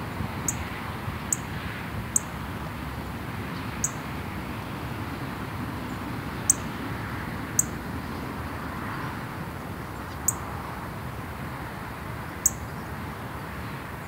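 A small songbird giving short, thin, very high call notes, about eight at uneven intervals, over a steady background hiss and rumble.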